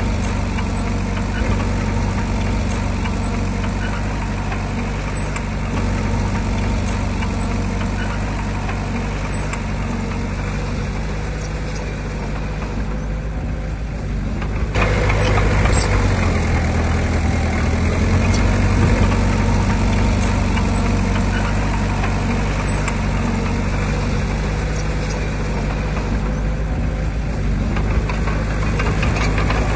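Heavy diesel earthmoving machinery, a bulldozer or dump truck, running steadily; about halfway through it gets louder and harsher, as the engine works harder.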